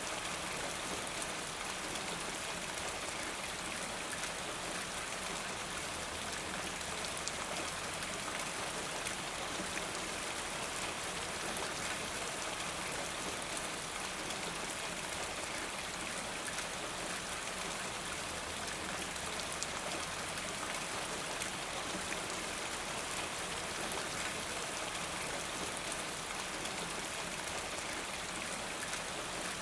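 Steady rain falling, with many small drop impacts in a constant hiss.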